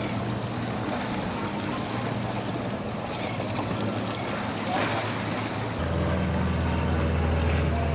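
Boat engines running through the inlet over wind and surf. About six seconds in, a louder, deeper engine note comes in as a boat draws closer.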